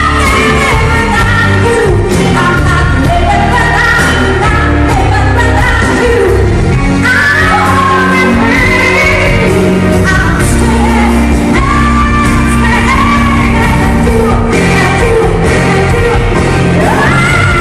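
Live pop performance: a female singer holding and sliding through long belted notes over a full band, with the echo of a large hall.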